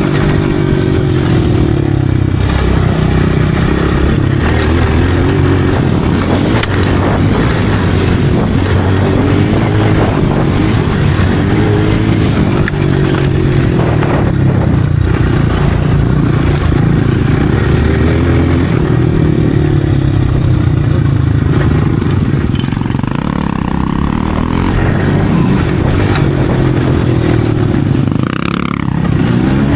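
Motocross dirt bike engine running continuously, its pitch rising and falling as the throttle is worked.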